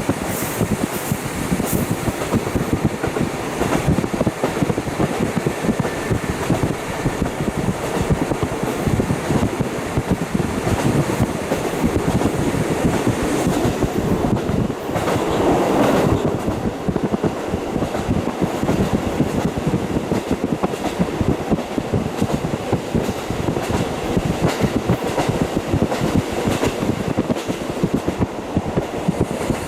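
JR KiHa 40 diesel railcar running along the line, heard through a fully open window: a continuous rush of wheel, rail and wind noise with a fast run of wheel clicks over the rails. The noise swells briefly about halfway through.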